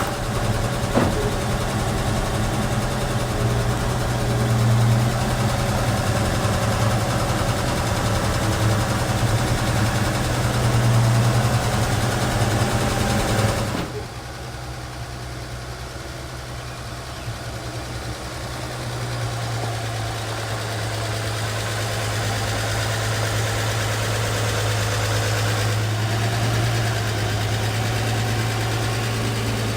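1953 Chevy truck's engine idling steadily just after a cold start. About halfway through it suddenly gets quieter for a few seconds, then comes back up and settles into an even idle.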